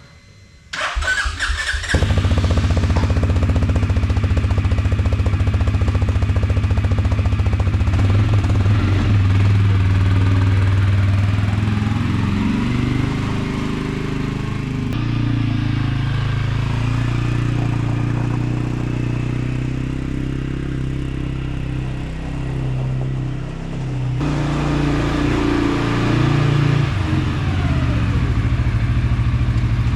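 CF Moto 400cc quad bike engine started: a brief crank about a second in, catching about two seconds in, then running steadily with its speed shifting now and then.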